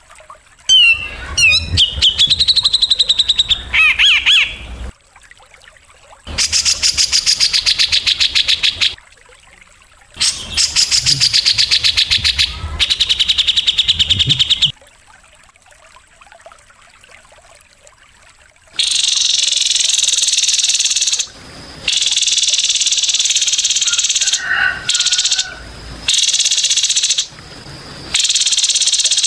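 Recorded bird and insect calls of the kind played to train caged songbirds: rapid buzzing trills in bursts of two to four seconds with short pauses between, and gliding whistles near the start.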